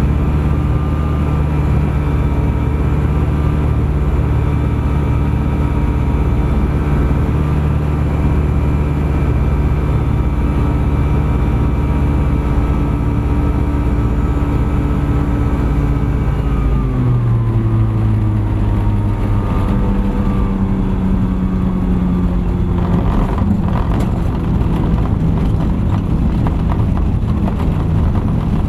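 Thruster ultralight aircraft's engine and propeller running steadily at cruise power, then throttled back a little past halfway, the engine note dropping in pitch and settling lower.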